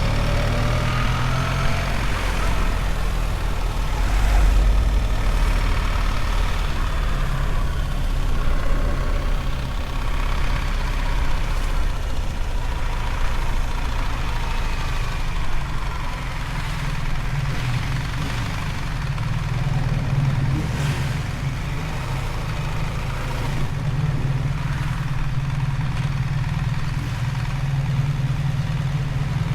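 BMW R1300 GS motorcycle's 1300 cc boxer twin engine running as the bike is ridden, a low steady drone with small shifts in pitch in the first few seconds.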